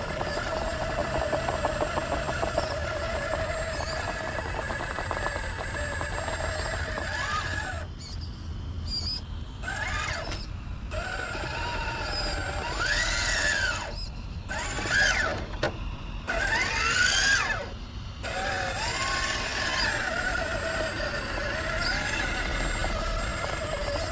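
Electric motor and gear whine of a small RC crawler truck, steady at first. Through the middle stretch it cuts out abruptly several times, and its pitch rises and falls as the throttle is worked, before it settles back to a steady whine near the end.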